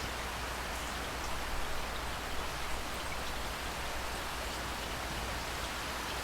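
Steady rain falling, with individual drops ticking close by.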